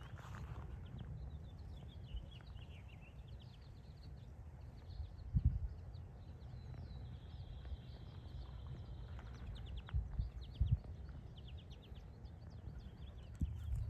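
Small birds chirping and calling outdoors, with one steady high buzzy note held for about two seconds midway. Under them is a low rumble, and a few dull thumps come about five seconds in, twice around ten seconds, and near the end.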